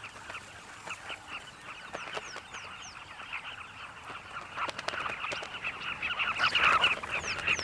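A colony of carmine bee-eaters calling: many short, clipped calls overlapping, growing louder and denser about six seconds in.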